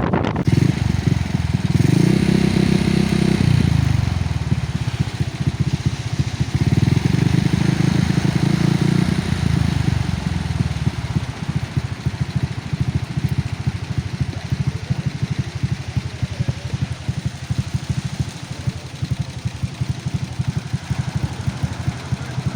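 A motor engine running steadily, swelling louder twice, about two seconds in and again about seven seconds in, then settling lower.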